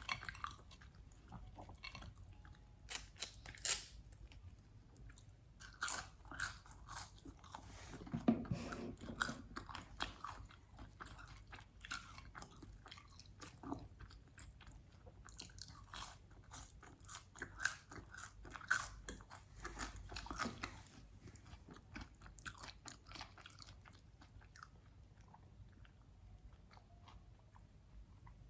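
Close-miked biting and chewing of crispy fried chicken wings. The crunching is made of many sharp crackles, in clusters of bites.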